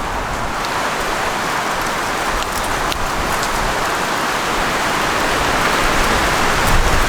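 Blizzard: wind-driven snow hissing and pattering, building slowly louder, with a few faint ticks.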